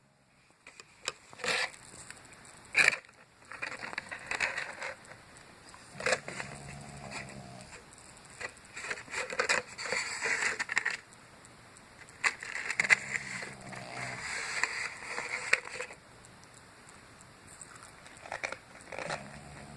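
A dog snoring: a low, buzzing snore about every six seconds, with crackly, scraping noises in between.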